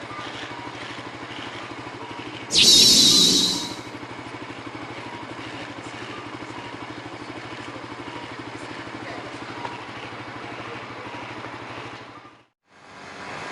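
Motorcycle engine idling steadily with an even, rapid pulse. About two and a half seconds in, a loud high, wavering sound lasts a little over a second; near the end the engine sound cuts out and a similar steady engine sound fades back in.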